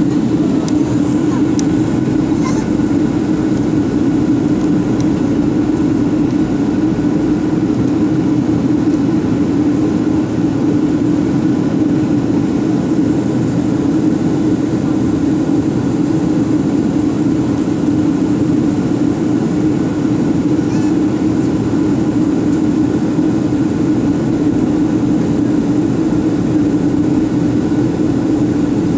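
Steady, loud drone inside an airliner's passenger cabin: engine and airflow noise with a strong low hum, heard during the approach to landing.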